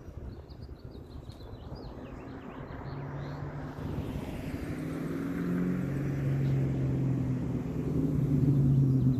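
2003 Ford Mustang Mach 1's V8 running through a Carven aftermarket exhaust, a steady low exhaust note growing louder over several seconds. Birds chirp faintly early on.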